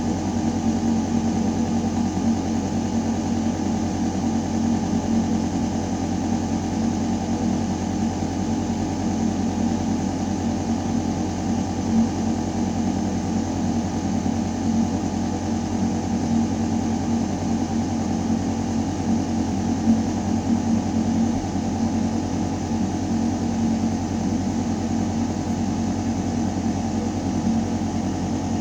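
Building ventilation system running, air moving through a metal duct shaft: a deep, constant hum with an even hiss of air over it, unchanging throughout.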